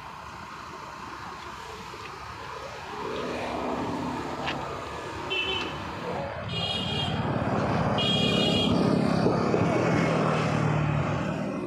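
Road traffic passing, its noise swelling to a peak and then fading, with three short high-pitched beeps partway through.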